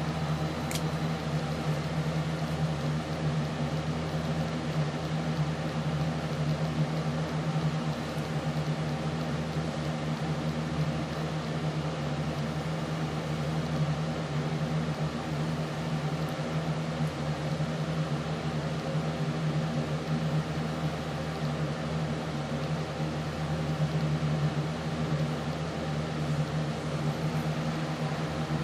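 A steady machine hum with several held tones over a light hiss, like a fan or other running appliance, with one brief high click about a second in.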